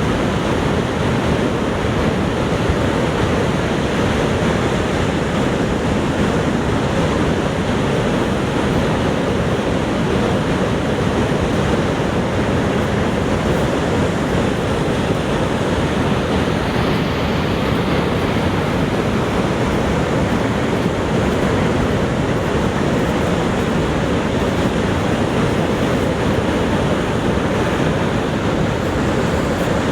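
Niagara Falls thundering: a steady, unbroken rush of falling water.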